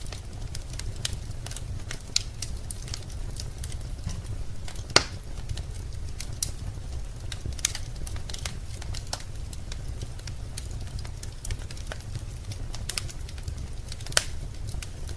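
Wood fire in a fireplace crackling, with irregular sharp pops, the loudest about five seconds in and another near the end, over a steady low rumble.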